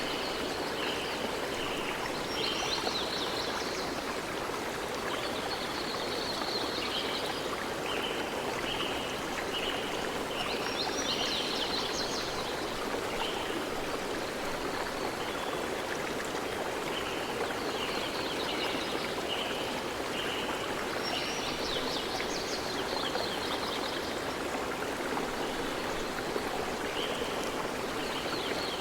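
A stream running steadily, with birds calling over it: short, high notes repeated in runs, and now and then a brief flurry of higher chirps.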